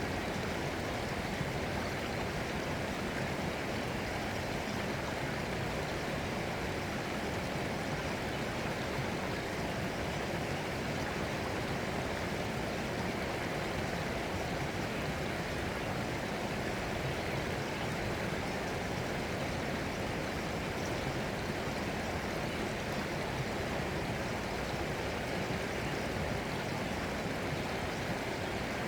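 Running stream water, a steady, unbroken rush.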